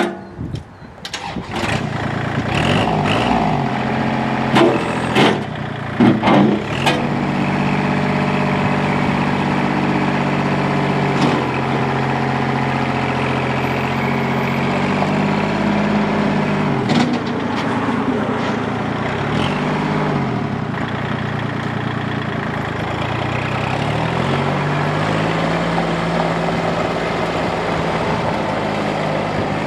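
Kubota L2501's three-cylinder diesel engine starting up and then running steadily, its speed rising and falling several times. A few sharp knocks sound in the first several seconds.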